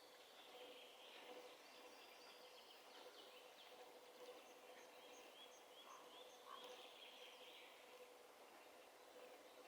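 Faint forest birdsong: several small birds chirping and twittering, with a quick run of evenly spaced high notes near the middle, over a steady faint hum.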